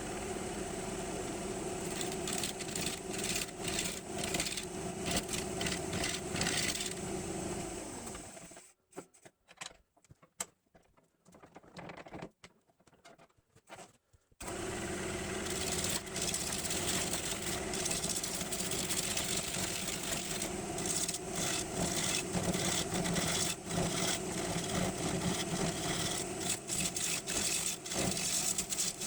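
Electric woodworking machine running as it cuts a green maple blank, a steady motor hum with scattered sharp ticks from the cut. It stops about 8 seconds in, with a few small handling noises, and starts up again about 14 seconds in.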